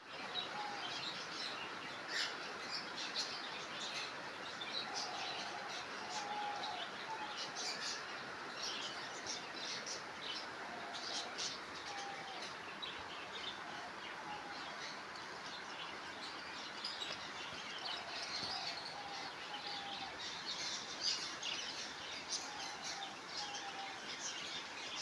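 A room full of caged pet birds chirping and calling all at once: a constant chatter of short high chirps, with a lower short call coming back every few seconds.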